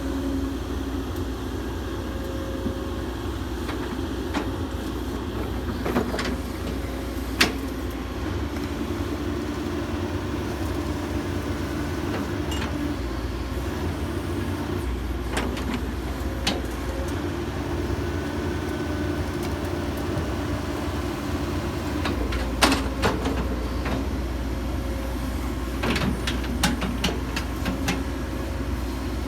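Hitachi 135US hydraulic excavator's diesel engine running steadily while it digs dirt, with scattered sharp knocks and clanks, a few in quick succession toward the end.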